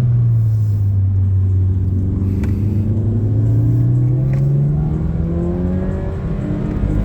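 Car engine heard from inside the cabin, its revs dropping and then climbing again as the car slows for a bend and accelerates out, over steady road rumble.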